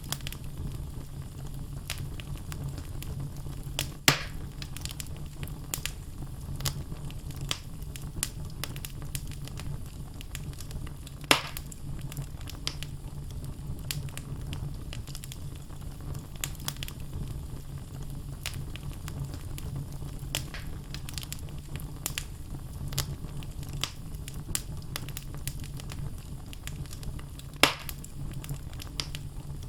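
Wood fire burning in a fireplace: a steady low rumble of flames with constant crackling of the logs and three louder sharp pops, about 4, 11 and 28 seconds in.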